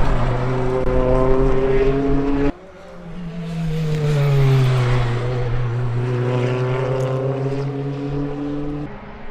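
BTCC Toyota Corolla GR Sport touring car running hard on track, in two edited takes: a steady engine note that breaks off abruptly about two and a half seconds in, then the car's note rising and falling as it goes by before holding steady.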